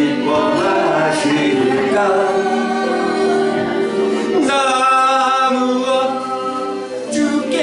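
A man singing a slow gospel hymn with instrumental accompaniment, holding long notes.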